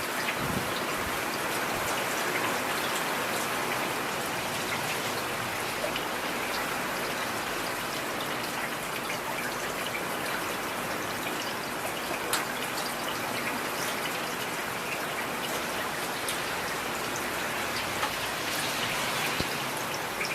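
Heavy rain falling steadily, with individual drops tapping sharply here and there.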